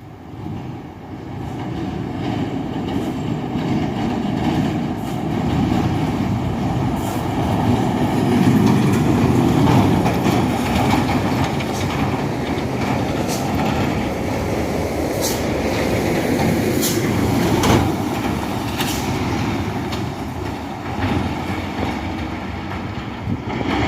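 Loaded dump truck's diesel engine working hard on an uphill climb, swelling over the first few seconds and staying loud, with several brief sharp clanks through the middle stretch.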